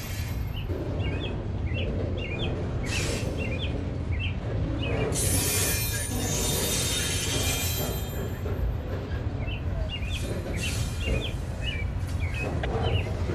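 Freight train of flatcars rolling past close by: a steady low rumble and clatter of steel wheels on the rails, with stretches of high hiss coming and going, the longest about five seconds in.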